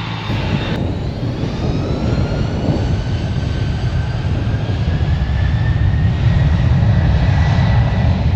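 Airplane taking off, its engines at takeoff power: a loud low rumble that builds steadily louder, with a faint whine rising slowly in pitch.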